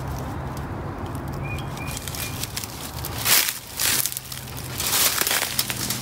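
Dry brush and twigs crackling and scraping against clothing as someone pushes through a thicket on foot, starting about three seconds in after a steadier low hum.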